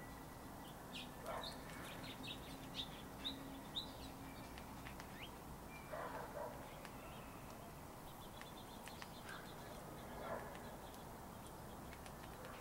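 Small songbirds at feeders giving short, high chirps, with a quick run of them in the first few seconds and scattered ones after, over a steady low background hum.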